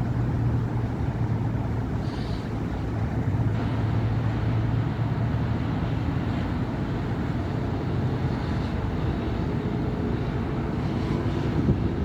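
Steady city street traffic: cars and buses passing, with a low engine hum and tyre noise.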